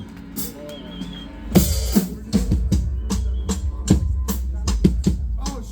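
Live band's drum kit coming in about a second and a half in and playing a steady beat of kick and snare hits, with a low bass underneath.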